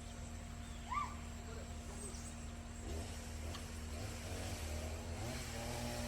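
A motor engine running steadily at a low drone, picking up speed about five seconds in and holding at the higher pitch. A short chirp sounds about a second in.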